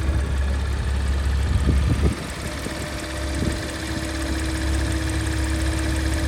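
Porsche Macan S running with a steady low drone and a constant humming tone, with a few short knocks about two seconds in and one more a little later. This is the strange noise coming from the vehicle.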